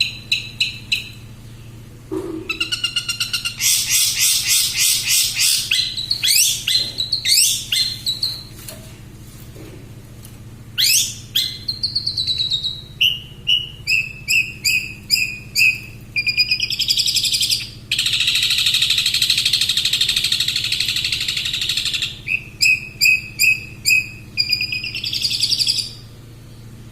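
Long-tailed shrike singing a fast, varied song: runs of quick repeated chips and sweeping rising whistles, then a harsh buzzy stretch of about four seconds past the middle, before the chips return near the end.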